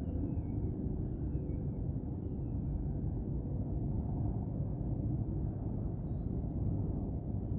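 Outdoor morning ambience: a steady low rumble, with faint birds chirping over it in short downward-sliding calls and a few high ticks.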